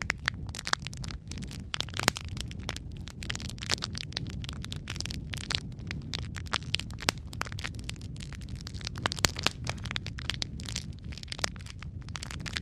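Wood fire crackling in a fireplace: frequent irregular sharp pops and snaps over a steady low rumble of flames, with a few louder pops about two seconds in and around nine seconds in.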